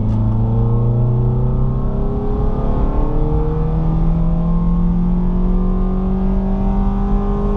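2000 Honda CR-V's 2.0-litre four-cylinder engine breathing through a short ram air intake, accelerating hard from about 30 mph, its pitch climbing slowly and steadily as it pulls, heard from inside the cabin.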